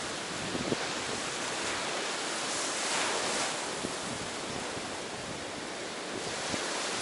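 Ocean waves washing ashore in a steady surf hiss, with one wash swelling louder about three seconds in.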